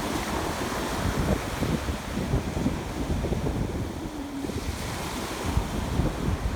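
Ocean surf washing on the shore, with wind buffeting the microphone in gusts.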